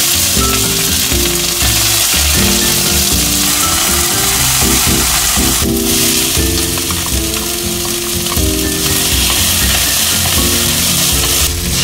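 Chopped onion, green onion and diced Spam frying in a stainless steel pan, sizzling steadily as a wooden spatula stirs them. The sizzle dips briefly about six seconds in and again just before the end, over background music.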